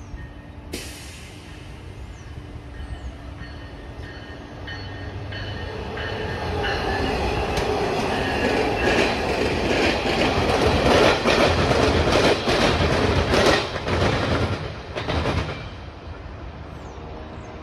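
Metra electric commuter train running through the station at speed without stopping: its rumble builds, the wheels clack rapidly over rail joints at the loudest point, then the sound falls away about fifteen seconds in.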